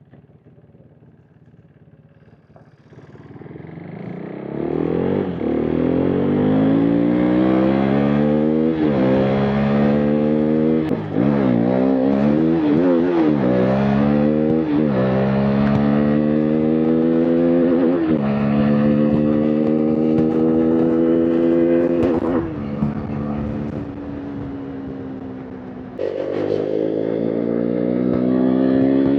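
KTM RC 390's single-cylinder engine and exhaust under hard acceleration. After a quiet start the revs climb about three seconds in, then rise and fall through a run of upshifts, the pitch dropping at each gear change. Late on the revs ease off, then the throttle opens again sharply.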